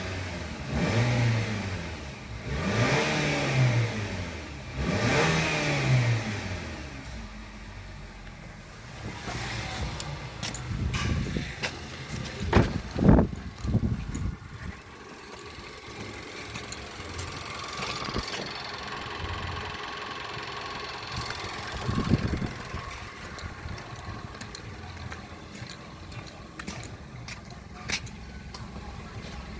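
2014 Nissan X-Trail's MR20 2.0-litre petrol four-cylinder engine revved up and let fall back three times in quick succession, then idling steadily, with one more short rev about two-thirds of the way through. A few loud sharp knocks come around the middle. The seller says the engine runs smooth.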